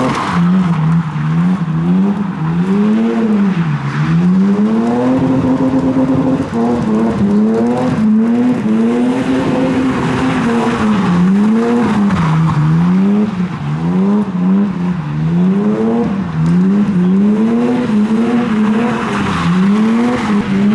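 A car drifting: its engine revs up and down over and over, about once a second, held high for a couple of seconds now and then, while the tyres squeal and skid.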